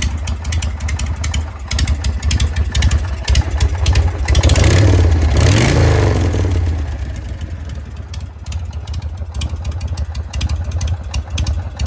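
1981 Harley-Davidson Shovelhead V-twin idling through its freshly built custom exhaust with a loping, uneven beat. It is revved twice in quick succession about halfway through, then drops back to idle.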